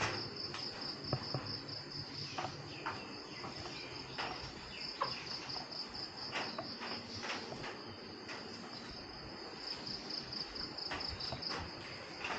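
Insects chirping steadily in a high, rapidly pulsing trill, cricket-like, with scattered light clicks and knocks over it.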